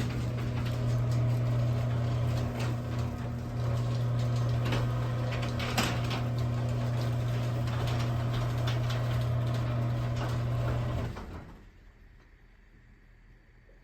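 A LiftMaster 1/3 horsepower chain-drive garage door opener closes a large garage door. The motor hums steadily under a running rattle and clicking of chain and door, with a sharp click about six seconds in. It stops abruptly about eleven seconds in as the door finishes closing.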